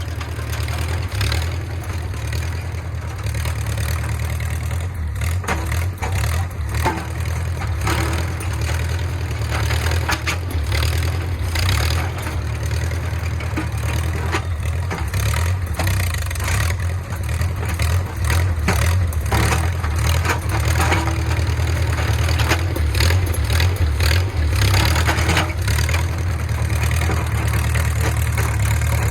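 Engine of a small 1950s crawler bulldozer running steadily, with frequent metallic clanks and rattles over it.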